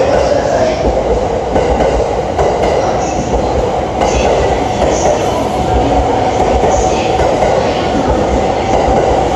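Electric commuter train rolling alongside the platform: a steady, loud rumble of wheels on rail, with a few brief high wheel squeals.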